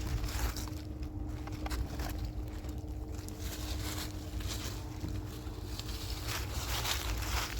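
Irregular rustling footsteps over a steady low rumble, with a faint steady hum.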